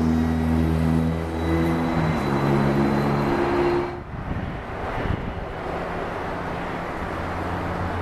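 Jet airliner engines running: a thin steady whine over a low drone. About halfway through the sound changes abruptly to a quieter, steadier drone.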